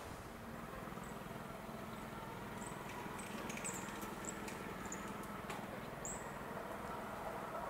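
Faint trackside outdoor ambience with a series of short, high chirps from small birds. A low hum from an approaching electric locomotive builds near the end.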